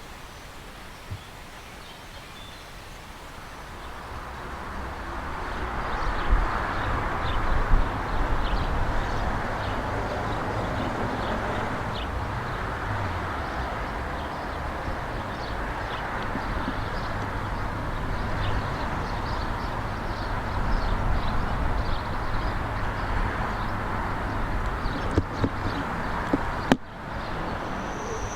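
A train running by: a steady rumble that grows louder about four to six seconds in and holds, with many short clicks and ticks from the wheels on the rails. Near the end the sound drops out abruptly for a moment.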